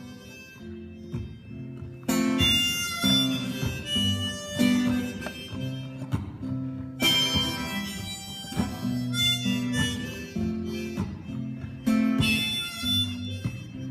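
Folk song intro: acoustic guitar strumming a steady rhythm, with harmonica coming in about two seconds in and playing the melody in phrases.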